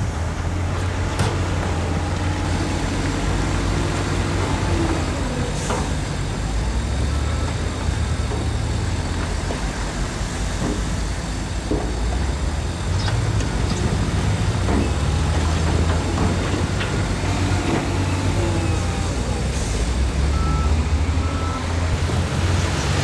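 Diesel engines of heavy earthmoving machinery running steadily under load, the engine note shifting up and down, with a few scattered knocks.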